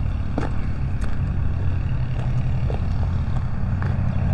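A steady low rumble, with a few soft footsteps on a path.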